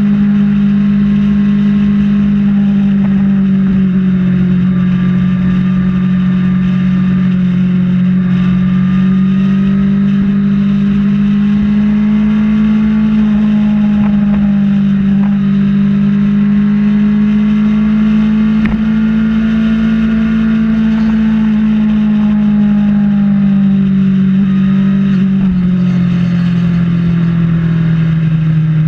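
Kawasaki ZX-6R's inline-four engine running at a steady cruise, its pitch rising and falling gently and dropping near the end, with a rough rush of wind on the microphone underneath.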